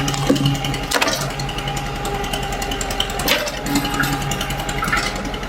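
Excavator engine running steadily while it digs, with two sharp knocks a little over two seconds apart, the first about a second in.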